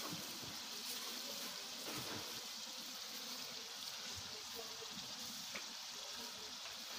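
Chicken and masala frying in a large aluminium cooking pot: a soft, steady sizzle with a few faint crackles.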